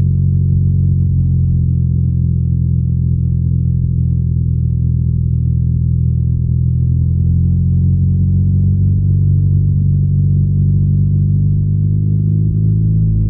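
BMW R nineT's air/oil-cooled boxer twin running steadily under way, a deep, even exhaust note heard from the rider's seat.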